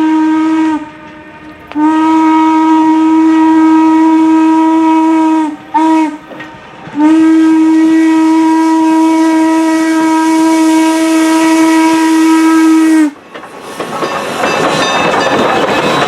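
Steam locomotive whistle of Norfolk & Western 611 sounding the grade-crossing signal: a long blast trailing off just under a second in, another long blast, a short one, then a final long blast lasting about six seconds. A rising hiss of steam and train noise follows near the end.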